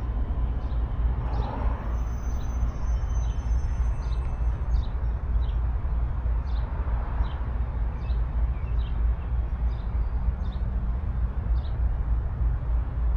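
Steady low rumble of outdoor ambience, with a small bird chirping over it: short, high, falling chirps about once a second.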